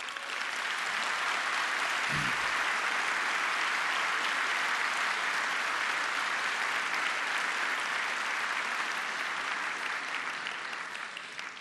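A large audience applauding steadily for about eleven seconds, tapering off near the end.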